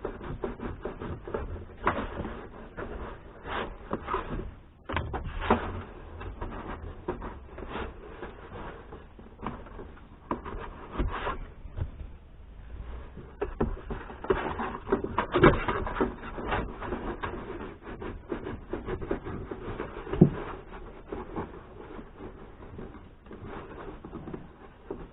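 Irregular rubbing and scraping with scattered light knocks: hands working at the interior roof lining and trim of a kei car.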